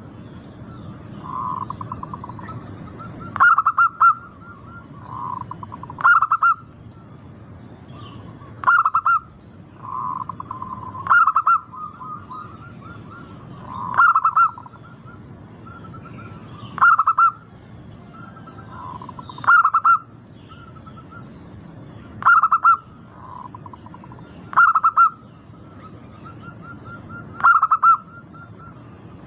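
Zebra doves (local perkutut) cooing: a loud staccato song phrase repeated about every two and a half seconds, with softer coos between, over a steady low background noise.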